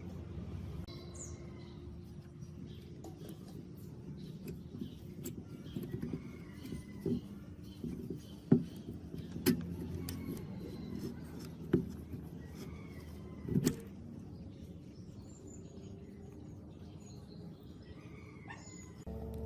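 Several sharp clicks and knocks, scattered irregularly, over a steady low hum.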